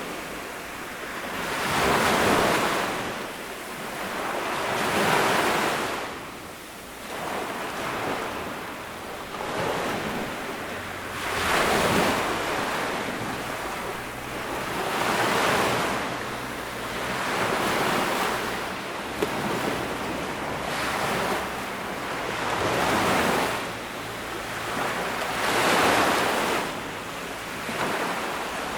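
Ocean waves breaking on a sandy beach: a wash of surf that swells and falls away again about every three seconds.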